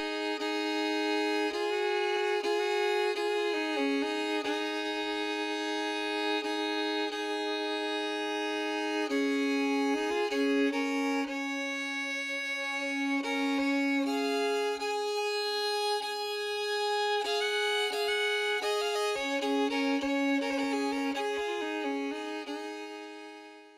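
Background music led by a violin or fiddle playing a slow melody, fading out near the end.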